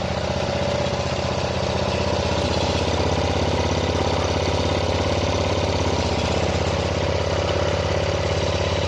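Tractor engine idling steadily with an even firing beat. The engine was seized and has been freed, and it now runs on its own.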